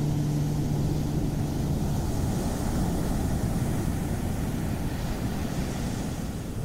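Ocean surf washing steadily, a noisy rush without pitch. A low held musical drone fades out over the first two seconds.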